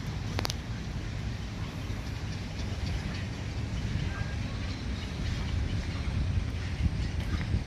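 A steady low rumble of outdoor noise with uneven loudness, with a few faint clicks and a brief high chirp about four seconds in.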